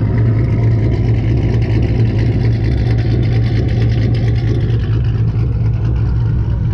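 A car engine idling steadily, a deep, constant tone with no revving.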